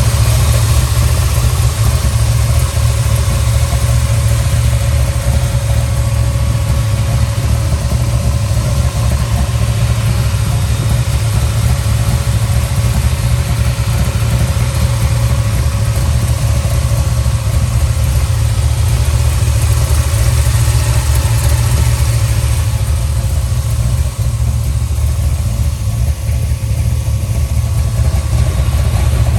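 Hot rod's 598 cubic-inch big-block V8, built on a Dart Big M block, idling loudly and steadily with a deep, even rumble, freshly cold-started and warming up.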